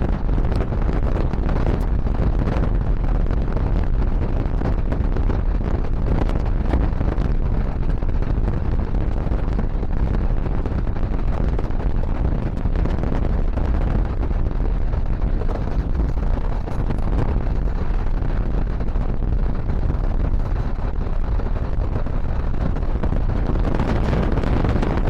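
Steady rumble of a moving train, with wind buffeting the action camera's microphone.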